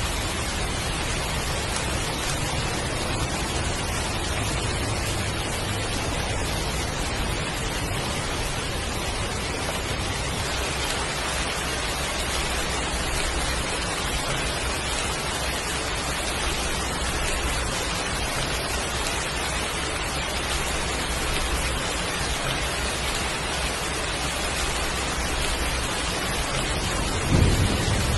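Heavy rain falling in a steady, even hiss. Just before the end, a short low thump rises briefly above it.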